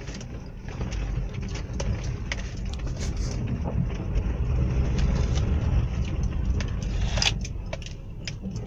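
Nissan Livina car running on a brake test drive: steady low engine and road rumble, growing somewhat louder through the middle, with a few light clicks. No brake squeal is heard; the rear drum brakes, which had squealed from built-up dirt, run quiet after cleaning.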